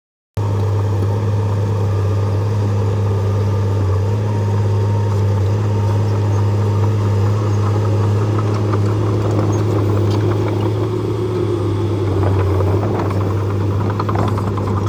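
Diesel engine of a Shantui DH17C2 bulldozer running steadily, with scattered light metallic clinks and rattles in the latter half.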